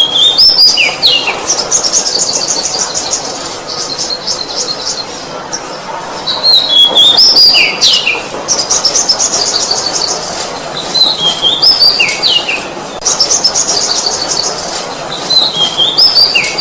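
Oriental magpie-robin (kacer) singing: a few clear whistled notes stepping down in pitch, then a rapid high chattering trill. The phrase repeats about every five to six seconds.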